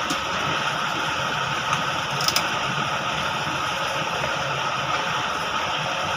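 Steady mechanical running noise, like a machine or motor, with a couple of short clicks about two seconds in.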